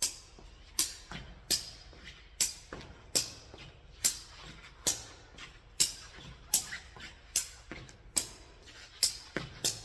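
A jegi, the Korean weighted shuttlecock, kicked up again and again off the side of a foot: a sharp tap about every 0.8 seconds, a dozen or so in an unbroken run, with a few quicker taps near the end.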